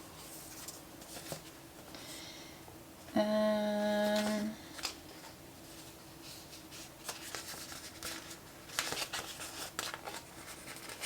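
Paper and sticker sheets handled on a desk: light crackling, peeling and rustling, busiest in the second half. About three seconds in comes the loudest sound, a single steady pitched tone lasting about a second and a half.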